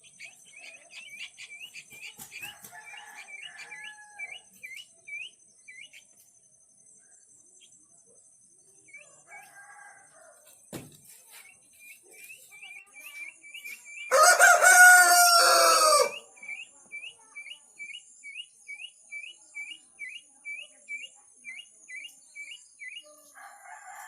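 A village rooster crows once, loudly, for about two seconds midway through, the call dropping in pitch at its end. Around it, short high chirps repeat two or three times a second, with a few softer, lower calls from other fowl.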